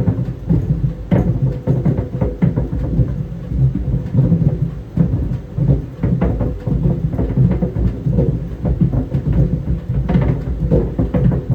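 Tennis balls tumbling in a running clothes dryer, thudding irregularly against the turning drum several times a second over a steady low rumble.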